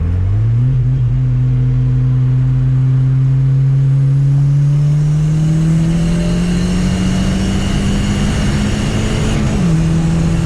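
Car engine pulling under steady acceleration through one gear, its pitch climbing slowly, with a faint high whine rising along with it. Near the end the pitch drops suddenly at a gear change.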